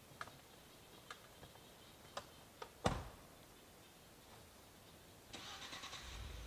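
A few light clicks and one louder knock, then a pickup truck's engine cranks over with a buzzing starter about five seconds in and catches, settling into a low, steady idle.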